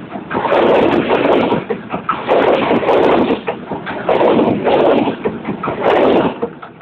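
Matarmaja passenger train cars passing very close at speed: the wheels clatter on the rails in loud rhythmic surges about every two seconds, with sharp clicks. The noise falls away near the end as the last car goes by.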